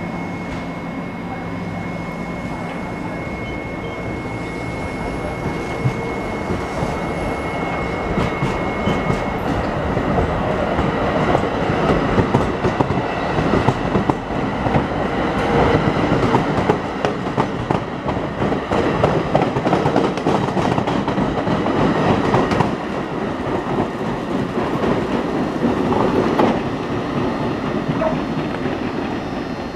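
NJ Transit bi-level passenger train pulling out of the station, its coaches rolling past with the wheels clicking rhythmically over the rail joints. The noise builds as the train gathers speed and eases off near the end as it moves away. A steady high tone stops about nine seconds in.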